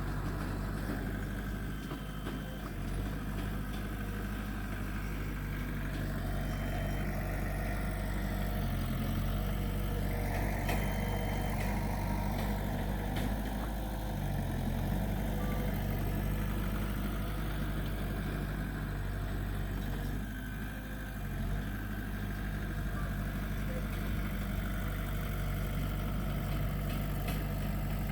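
Diesel engine of earthmoving machinery running steadily, its note shifting briefly a few times as it works.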